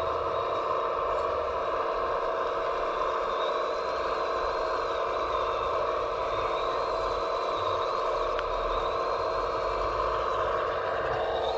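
Steady whine of radio-controlled scale construction machines running, their electric motors and hydraulic pumps holding an even pitch. A faint wavering higher tone comes in about three seconds in and fades out near the end.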